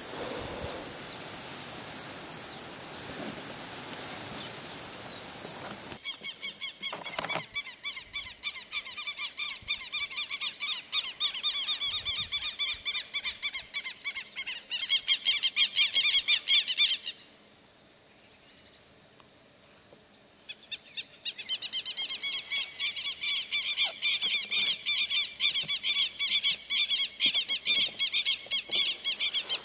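A steady outdoor hiss for the first few seconds, then a bird singing in fast, repeated high notes. The song stops for a few seconds past the middle and then starts again.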